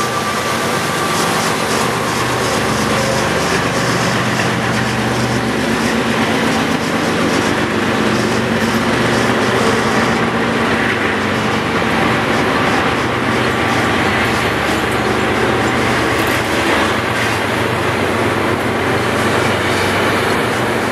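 A train rolling past at close range: a steady rumble of steel wheels on rail under a low, constant drone, with faint repeated clicking of wheels over the rail joints.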